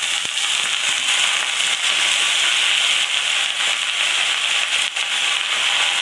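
Hot oil sizzling loudly with crackling pops as handfuls of tok shak (sour greens) go into a pan tempered with mustard seeds and green chillies; the steady sizzle is broken by a sharp pop just after the start and another near the end.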